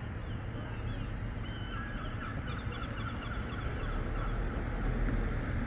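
A flock of birds calling: many short calls overlapping, thickest through the middle and thinning out, over a steady low rumble.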